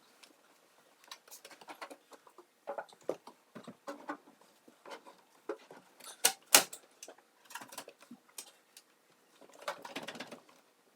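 Irregular clicks, taps and knocks of an over-the-range microwave being handled and fitted into its mounting, with two sharper knocks a little past the middle.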